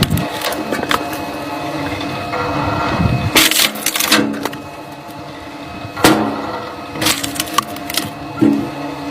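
A steadily running engine-driven machine, with wood cracking and splintering several times as it is split.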